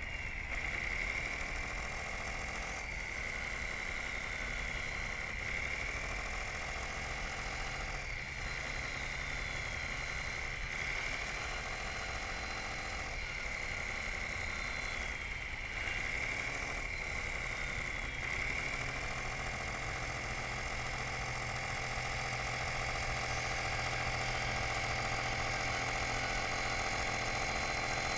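Radio-controlled model bulldozer running: a steady motor whine over a lower engine-like hum. Its pitch dips and recovers about every two and a half seconds, as if briefly loaded. For the last third it holds steady and a little louder.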